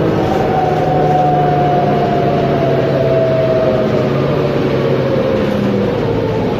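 Mercedes-Benz Conecto G articulated bus's OM457LA inline-six diesel running, with a high whine that slowly falls in pitch over several seconds.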